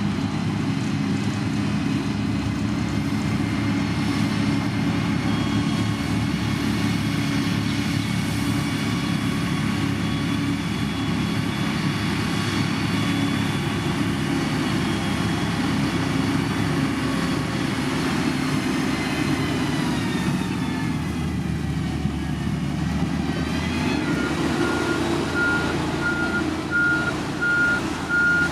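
Heavy construction machine's engine running steadily under load. Its note drops about two-thirds of the way through and then rises again. Near the end a reversing alarm starts beeping steadily as the machine backs up.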